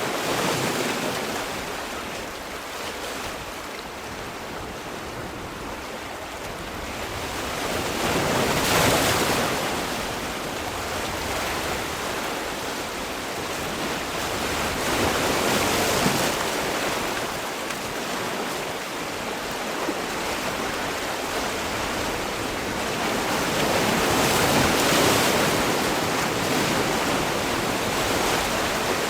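Sea waves washing ashore in a continuous hiss of surf, with bigger waves breaking roughly every seven to nine seconds, about 9, 16 and 25 seconds in.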